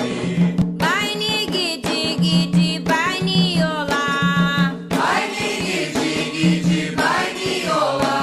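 Candomblé chant for Xangô: voices singing in call and response over atabaque hand drums and percussion beating a steady rhythm.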